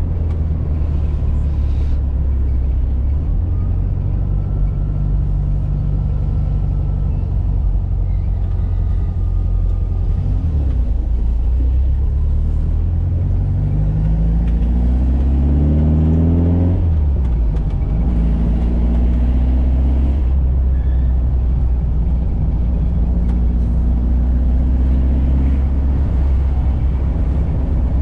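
Air-cooled flat-four boxer engine of a 1985 VW Fusca (Beetle) pulling on the road. The engine note climbs steadily for several seconds, then drops sharply about two-thirds of the way through at a gear change, and settles into a steady cruise.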